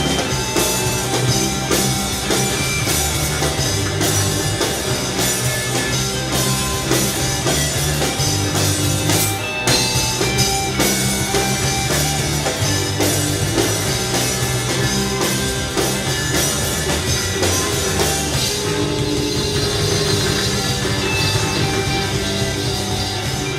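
Live rock band playing the instrumental ending of a song, with drum kit, electric guitar and bass and no singing.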